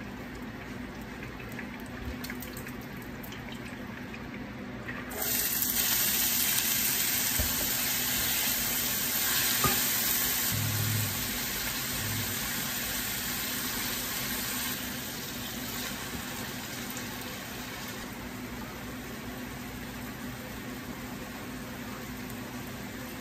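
Diced onion and carrot dropped into a hot sauté pan and sizzling: a sudden loud sizzle starts about five seconds in and slowly dies down over the next ten seconds or so. A low steady hum runs underneath.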